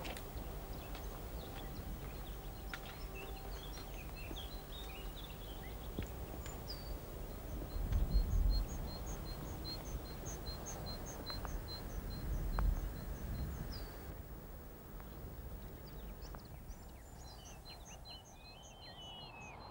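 A songbird singing a string of evenly repeated high notes, several a second, pausing for a few seconds near the end and then starting again. Footsteps scuff and click on rocky ground early on, and there are two brief low rumbles about eight and twelve seconds in.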